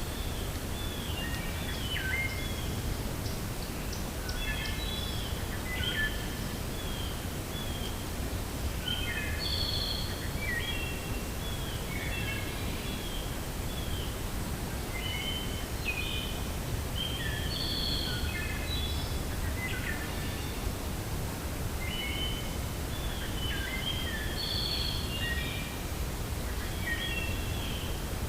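Steady wind with a low rumble, and small songbirds chirping in short clusters of quick notes every few seconds.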